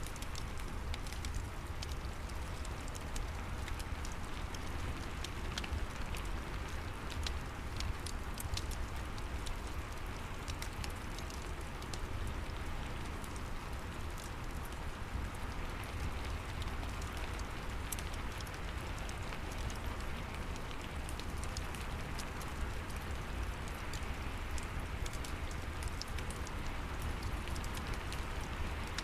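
Steady rain mixed with a crackling fireplace: an even hiss of rain with scattered sharp pops and crackles throughout, over a low, constant rumble.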